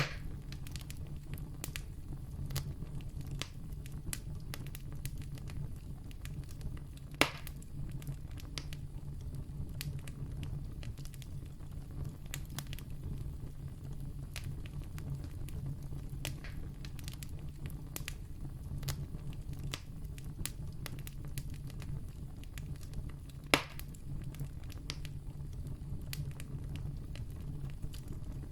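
Wood campfire burning: a steady low rush with frequent small crackles, and two louder sharp pops, one about seven seconds in and one near the end.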